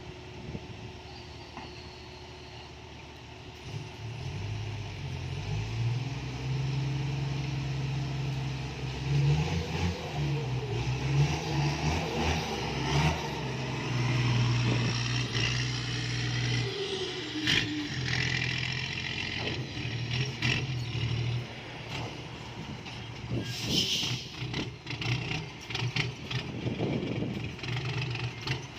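Isuzu FXZ 360 dump truck's diesel engine with a loud exhaust, picking up about four seconds in and running hard for some fifteen seconds, its pitch stepping up and down, then easing off. A short hiss of air comes near the end.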